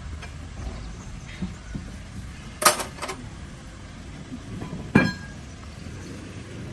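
Metal clinks: a sharp clink about two and a half seconds in, with a lighter one just after, and another about five seconds in that rings briefly. A low steady hum underneath.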